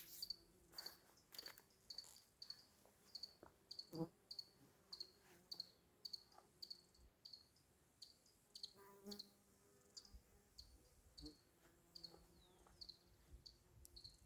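Faint insect chirping: short high chirps repeating evenly, about three every two seconds, with a soft knock about four seconds in.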